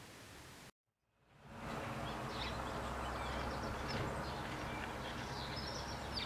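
Quiet indoor room tone cuts out under a second in. Steady outdoor garden ambience then fades in, with small birds giving short high chirps now and then.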